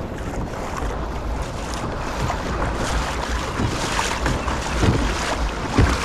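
Water sloshing and splashing against a kayak's hull on the move, with wind buffeting the microphone as a low rumble.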